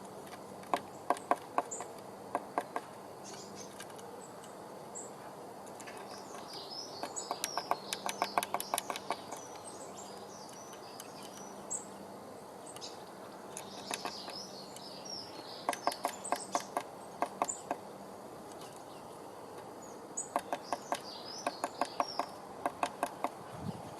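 Eurasian blue tit in a wooden nest box, several bursts of rapid scratching and tapping with high, thin twittering calls, as it works nesting material into place.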